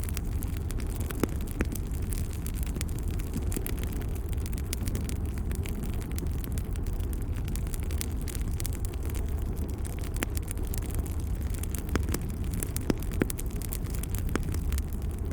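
Wood fire crackling in a fireplace: frequent irregular pops and snaps over a steady low rumble.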